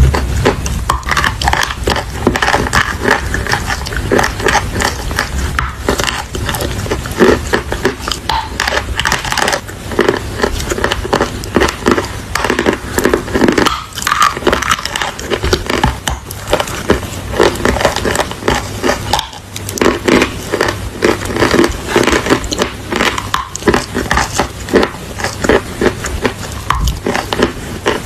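Close-up crunching as chalk and clay pieces are bitten and chewed: dense, irregular cracks and crumbling, many a second, without a break.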